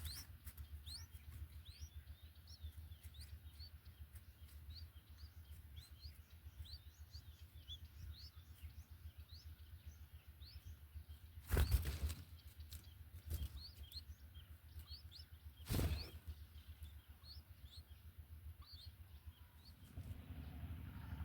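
Small birds chirping in quick, high, short rising notes, scattered throughout, with two louder brief knocks or rustles about twelve and sixteen seconds in.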